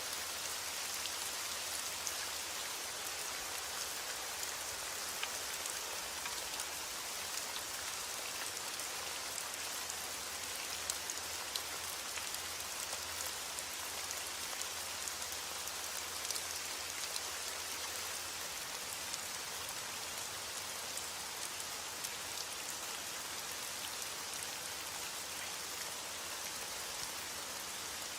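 Steady heavy rain falling, an even hiss with many close individual drop ticks.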